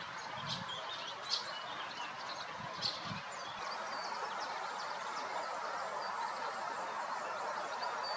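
Several songbirds chirping and singing in quick short calls, a few louder ones in the first three seconds, over a steady rushing background noise.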